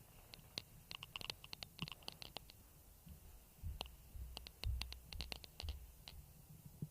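Faint, irregular clicks and ticks, with a few soft low thumps in the middle.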